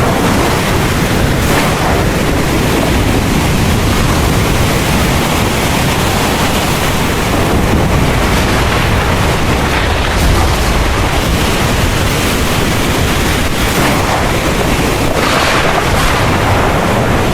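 Heavy rain pouring steadily, with wind and a low rumble of thunder underneath.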